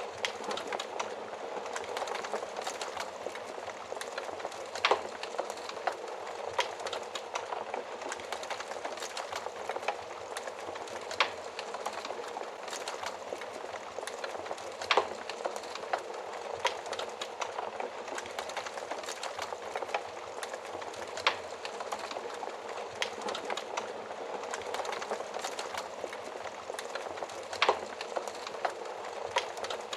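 Wood fire crackling steadily in an oven, with a sharp louder pop every few seconds.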